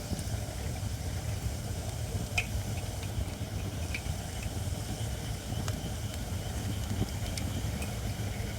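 Wood fire of not-yet-seasoned Japanese white oak burning, with a few sharp crackles and pops here and there over a steady low rumble.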